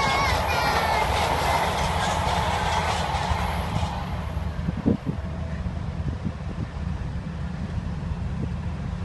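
MARTA electric rapid-transit train passing on an elevated track: a brief wheel squeal dies away at the start, then steady rail and wheel noise. About four seconds in this gives way to the steady low rumble of diesel freight locomotives, with a couple of sharp knocks.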